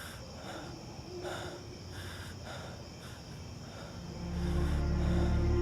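Crickets chirring steadily, with soft puffs repeating about twice a second. About four seconds in, low, dark sustained drama music swells in.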